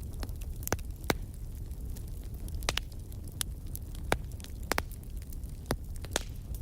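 Fireplace fire burning: a steady low rumble with irregular sharp crackles and pops, about eight clear ones.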